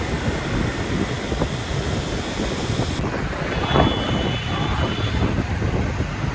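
Wind buffeting the microphone on a moving motorcycle, mixed with the steady noise of its engine and the surrounding street traffic.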